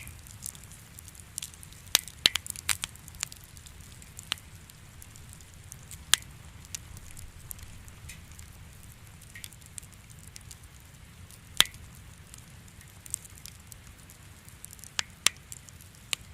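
Wood fire in a fireplace crackling, with irregular sharp pops and snaps, a cluster of them about two seconds in, over a low steady rumble.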